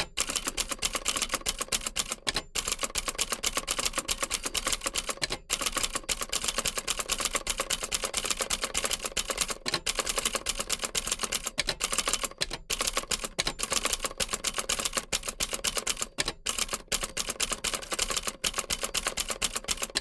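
Old typewriter being typed on: rapid, uneven key strikes clacking one after another, with a few short pauses between runs of typing.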